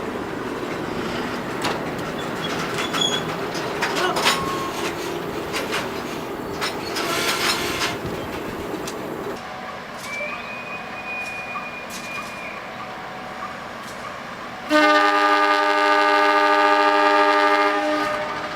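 Passenger train running on rails, a steady rumble with scattered clicks that eases off about halfway through. About fifteen seconds in, a locomotive horn sounds loud for about three seconds, a chord of several steady notes, and stops sharply.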